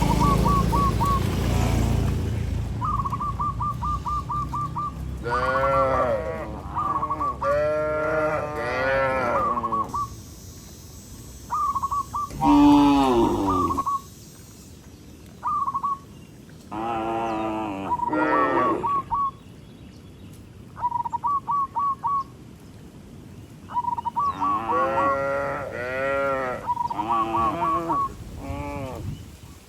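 Cattle mooing again and again, a string of arching calls each lasting about a second, with short runs of rapid, evenly spaced high notes in between.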